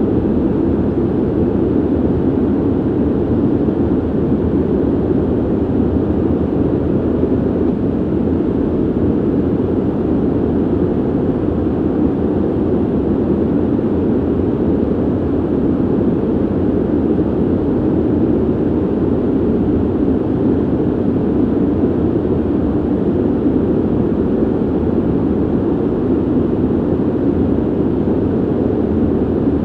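Steady ventilation noise: an even, low rushing hiss of air through a ventilation system, with no tones or changes.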